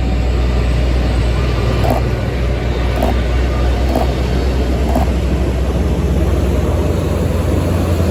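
Airbus A380 jet engines: a loud, steady low rumble with a broad roar over it.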